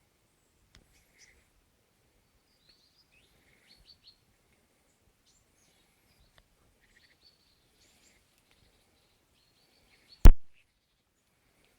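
Faint scattered chirps and calls of woodland birds, with one sudden sharp loud knock about ten seconds in.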